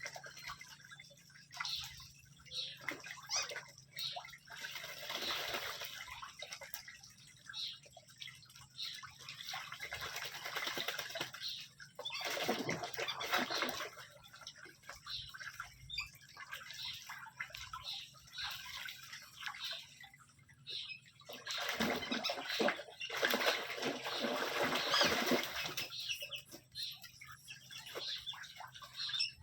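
Ducks bathing in water: irregular splashing and sloshing in bursts, with a loud spell about twelve seconds in and a longer, louder stretch about two-thirds of the way through.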